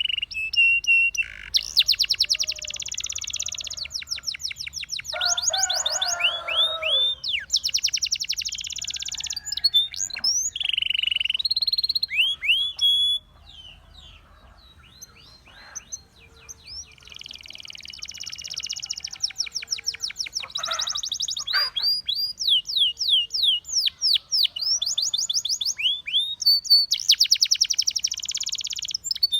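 Russian singing canary singing: fast trills of rapidly repeated notes alternating with rising whistled notes, with a pause of a few seconds about halfway through.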